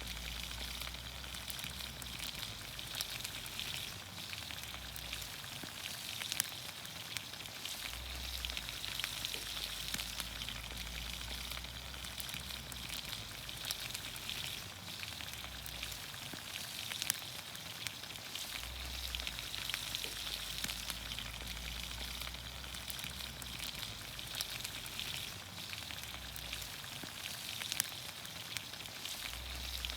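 Green beans, onions, carrots and potatoes sizzling in olive oil over a campfire: a steady frying hiss scattered with many small sharp pops and crackles.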